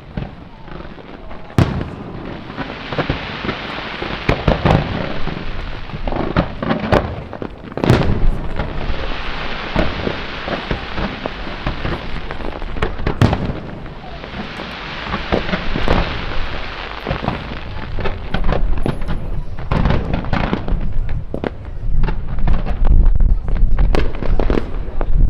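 Aerial fireworks bursting: many loud single bangs, with three long stretches of dense crackling between them and a heavier rumble of bursts near the end.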